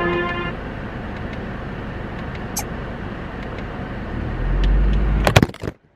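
Car noise, a steady wash of road and engine sound, swelling into a louder low rumble about four seconds in. A brief pitched tone fades out at the start, and a few sharp knocks come just before the sound cuts off abruptly.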